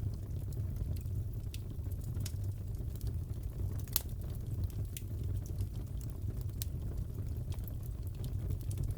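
Crackling fireplace: a steady low rumble of burning with scattered small pops and snaps, one sharper pop about four seconds in.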